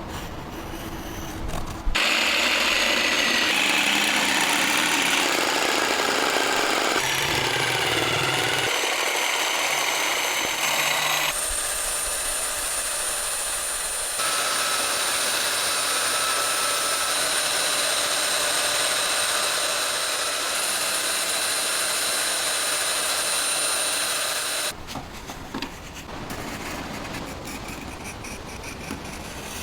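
A power tool running steadily with a high whine, switched on about two seconds in and off near the end. Quieter rubbing or scraping comes before and after it.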